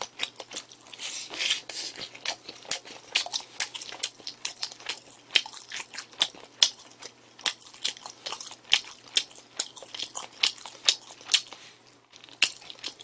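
Close-miked chewing of a burger, with wet mouth and lip-smacking clicks coming irregularly several times a second.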